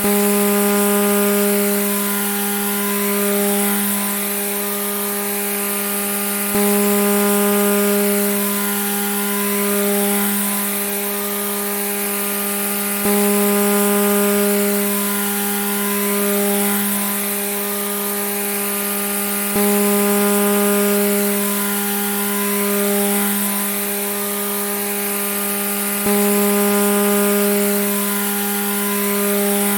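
Grass trimmer (weed eater) motor running steadily at high speed, a high-pitched whine with a gentle swell and dip in loudness that repeats every six or seven seconds with a sudden step each time it starts over.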